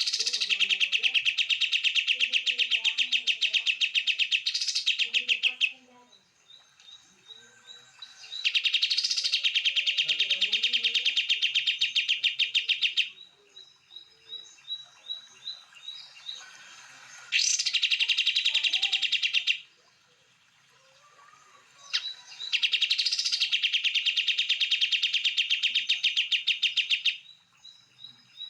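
Songbird song: four long, rapid, high-pitched trills of several seconds each, with series of short repeated chirps in the gaps between them.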